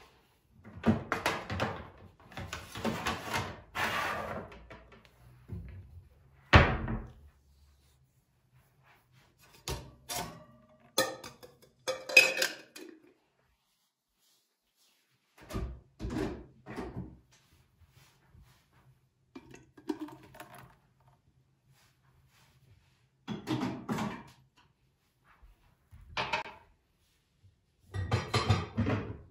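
A run of separate household handling sounds, objects being moved and set down with thunks and clatter. The loudest is a sharp knock about six and a half seconds in.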